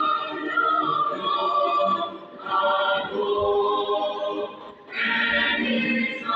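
Choir singing, with long held notes in phrases that break off briefly about two and a half seconds and about five seconds in.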